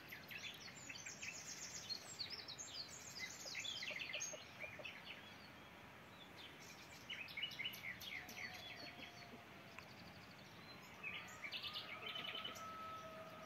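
Several small birds singing faintly, with fast runs of repeated chirps and trills, over a steady hiss of outdoor background noise. Faint long, level calls come in about halfway through and again near the end.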